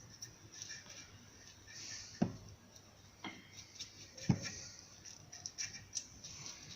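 Two sharp knocks about two seconds apart and scattered light clicks: tools and suspension parts being handled during reassembly of a car's front suspension.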